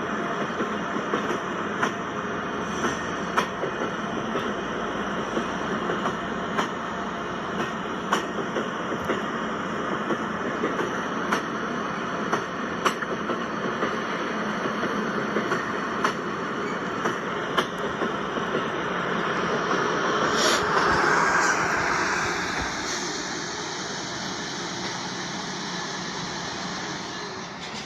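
Train rolling past with its wheels clicking over rail joints every second or so. It swells louder about two-thirds of the way in, then a high thin whine slowly falls in pitch as the sound fades.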